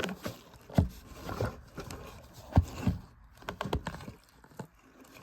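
Irregular knocks, taps and rustles of things being handled close to the microphone, about six or seven short thumps spread unevenly.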